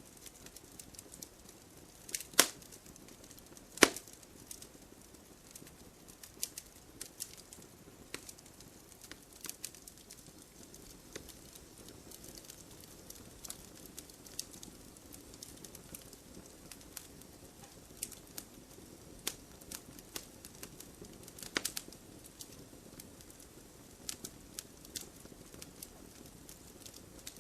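Burning firewood crackling: irregular sharp pops and snaps over a low steady hiss. Two loud pops come a couple of seconds in, and a short cluster of pops comes a little past two-thirds of the way through.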